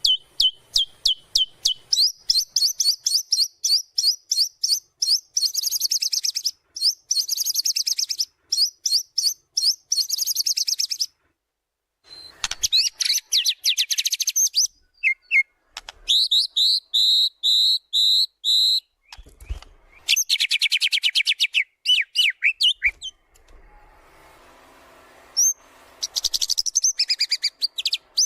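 White-rumped shama singing a fast, varied song: rapid chattering trills, a run of about six repeated whistled notes, and a few short pauses. It is a full-repertoire song, the kind played as a lure to provoke other shamas into singing.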